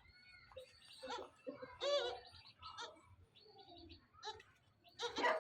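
Young Gulabi goat kids bleating in short, wavering calls, the loudest about two seconds in, with thin high chirps in the background.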